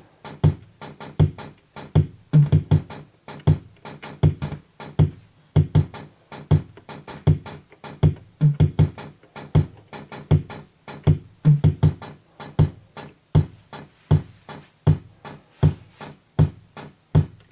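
Soviet-era Sound Auto Drummer preset drum machine playing a steady repeating rhythm pattern of low drum thumps and ticking hi-hat. No snare is heard even with its volume on maximum, because the unit's snare circuit is defective.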